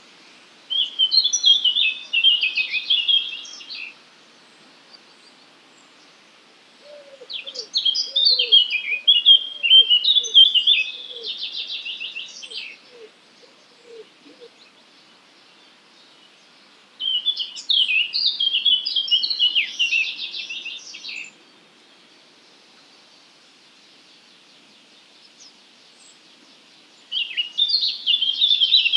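A songbird singing four separate high-pitched song phrases, each a few seconds long, with pauses of several seconds between them. Beneath the second phrase runs a series of faint, low, repeated notes.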